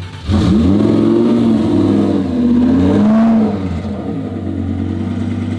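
A car engine blipping the throttle about three times, its pitch rising and falling with each rev, then settling to a steady idle about three and a half seconds in.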